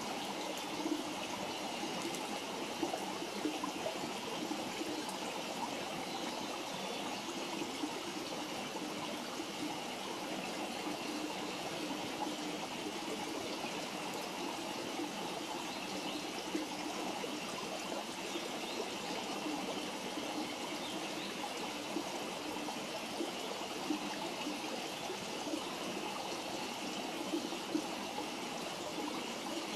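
Steady rushing of running water from a stream, with a few faint sharp pops from a wood campfire scattered through it.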